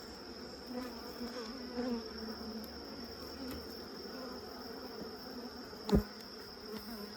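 Honeybees buzzing around an opened hive, a steady hum whose pitch wavers as individual bees fly past. A single sharp thump comes about six seconds in.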